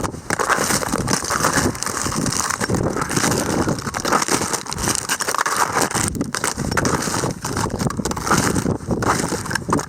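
Strong wind rushing and buffeting the microphone, with irregular crunching of snow underfoot from snowshoe steps.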